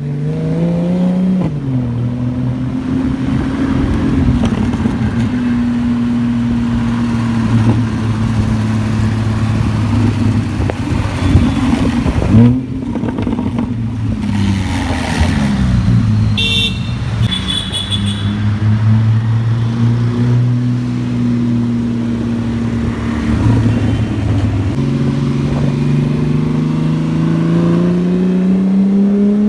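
Porsche 987 Cayman S's flat-six engine running, its pitch rising and falling with the revs and climbing steadily near the end as it accelerates. One sharp exhaust pop about halfway through is the loudest sound.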